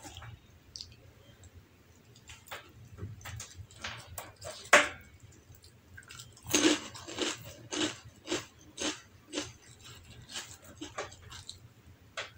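Close-miked biting and crunchy chewing of a crisp snack cracker by hand-fed mouthfuls: a loud crunch of the bite about halfway in, then regular crunching chews about two a second.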